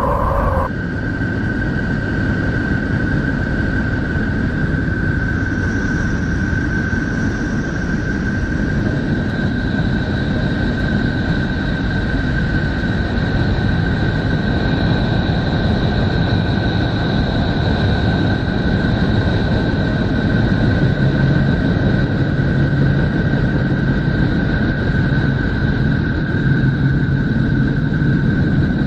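A 'planet sound' made from spacecraft data: a steady, dense, rumbling drone of noise with a thin steady high whine over it and a fainter, higher tone that comes and goes.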